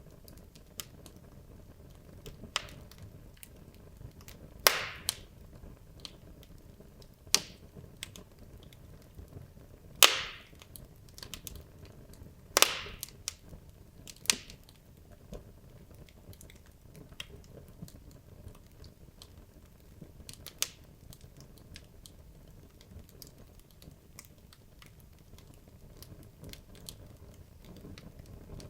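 Wood logs burning in a fireplace, crackling with frequent small pops and a few louder sharp snaps, over a low steady hiss of the fire.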